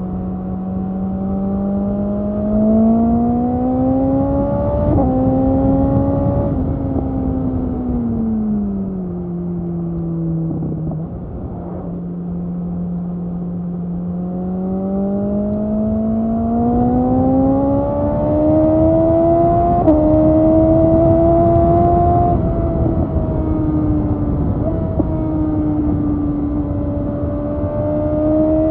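BMW S1000XR inline-four with an Akrapovic exhaust under way: the engine note climbs through the revs, dropping briefly at upshifts around 5 and 6 seconds in, eases off from about 8 to 12 seconds, then pulls up again with further shifts around 20, 22 and 25 seconds. Wind rumble runs underneath.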